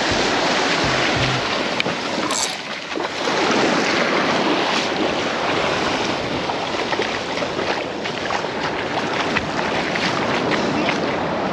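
Ocean surf washing onto the beach, a steady hiss that swells and eases, with wind on the microphone.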